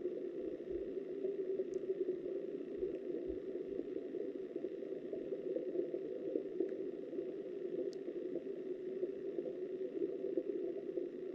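Steady, muffled rush of river water heard underwater through a submerged camera's housing.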